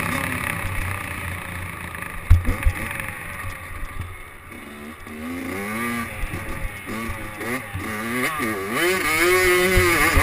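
Motocross dirt bike engine revving up and down, its pitch rising and falling again and again, with a sharp thump about two seconds in.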